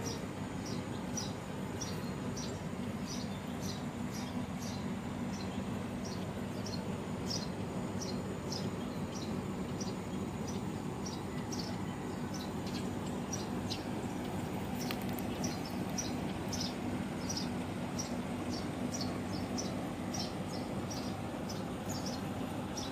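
Small birds chirping outdoors, short high chirps repeating irregularly about once or twice a second, over a steady low background rumble.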